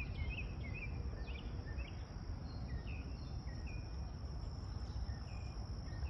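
Outdoor insect chorus: a steady high-pitched buzzing drone of crickets, with short chirps repeating every half second or so and a low rumble underneath.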